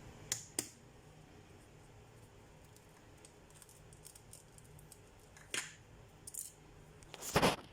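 Kitchen handling sounds over quiet room tone: a few light clicks and taps, then a louder brief clatter and clicks near the end as ingredients and containers are handled.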